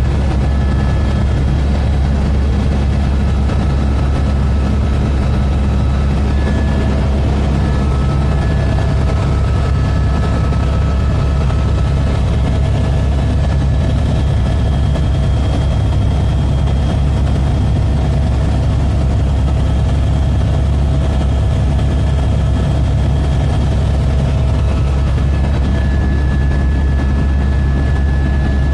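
Helicopter turbine and rotor noise, a loud, steady low drone with a faint whine held over it, unchanging throughout.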